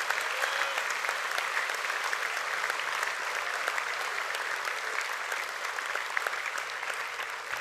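Audience applauding steadily, a dense patter of many people clapping hands, easing slightly near the end.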